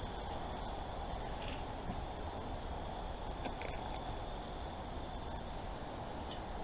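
Insects trilling steadily in the woods, one constant high-pitched drone with no breaks, over a low steady rustle of wind or handling noise.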